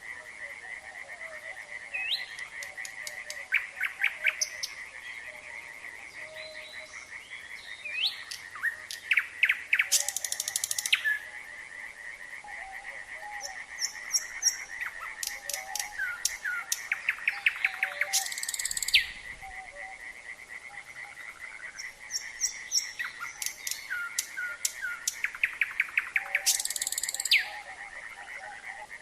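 A nightingale singing over a steady chorus of frogs. The frogs keep up a continuous fast-pulsing trill. The nightingale breaks in with short whistled notes and three loud, rapid rattling trills, roughly eight seconds apart.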